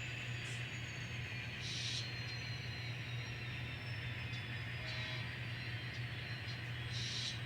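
N scale model train running on the layout track: a steady low hum with faint high whines slowly falling in pitch, and a few short hissy bursts, about two seconds in and near the end.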